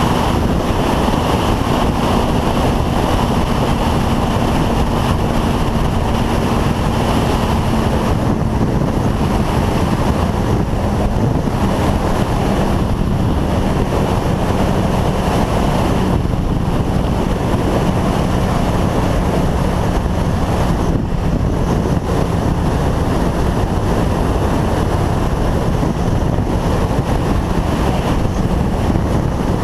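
Motorcycle riding at steady road speed: heavy wind rushing over the microphone nearly covers a steady engine note that sinks slowly in pitch.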